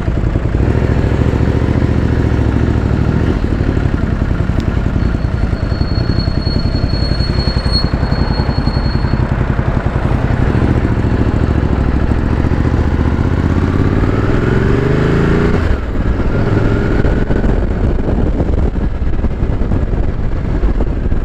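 Ducati Multistrada 1200S's twin-cylinder engine running under way, climbing steadily in pitch as it accelerates through a gear and then dropping suddenly at an upshift near the end, with rushing wind noise on the helmet microphone.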